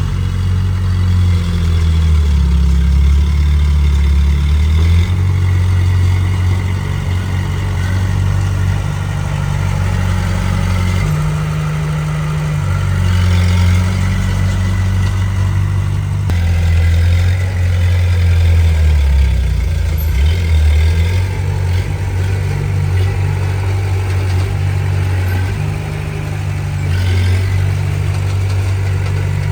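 Komatsu D20P bulldozer's diesel engine running at work, its low drone stepping up and down in pitch every few seconds as the load changes.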